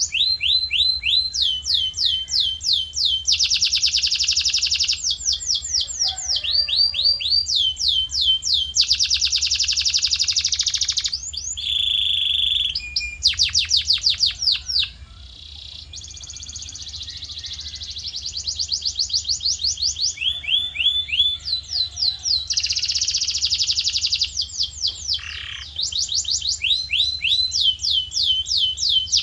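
Male canary in full song: a long run of rolling phrases, each a fast string of repeated down-sweeping whistled notes, switching to a new note type every second or two, with a short quieter lull about halfway through.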